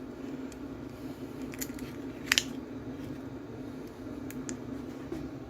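Chinese diesel air heater running steadily at its lowest setting, a low even hum, with a few small clicks and one sharper click a little over two seconds in.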